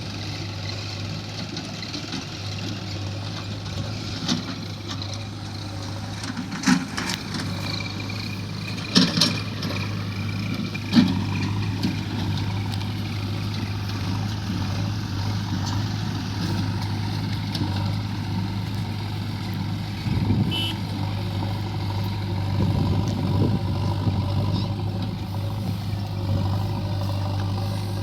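Diesel engine of a JCB 3DX backhoe loader running steadily under load, with a handful of sharp knocks and clatters as stones are scooped and dumped into a tractor.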